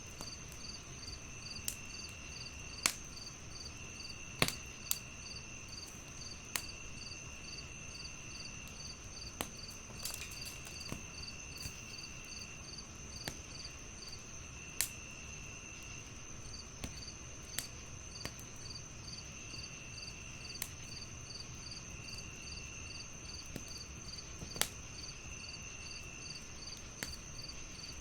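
Crickets chirping: a steady high trill, a quick regular pulsing and a lower buzz that comes and goes every second or so. Over it, a wood fire gives irregular sharp crackles and pops.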